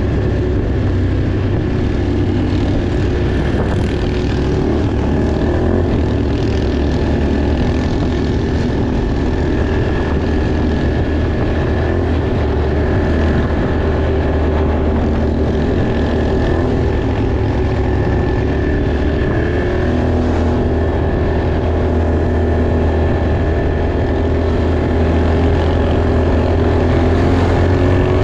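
Off-road vehicle engine running steadily at a constant speed for a long stretch. Right at the end the pitch climbs sharply as it revs up and accelerates.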